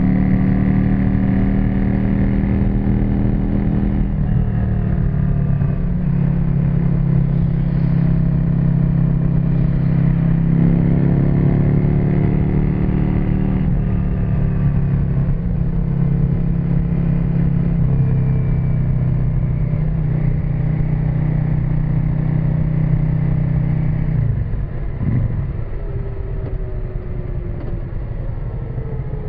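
Yamaha XV535 Virago's air-cooled V-twin running through a custom exhaust while riding, the engine note holding steady and shifting in pitch several times as it changes speed. Near the end the note drops and slides lower as the throttle comes off.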